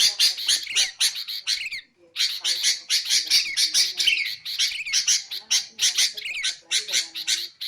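Sooty-headed bulbul (kutilang) chattering: a fast, nearly continuous string of short, sharp chirps, broken by one brief pause about two seconds in.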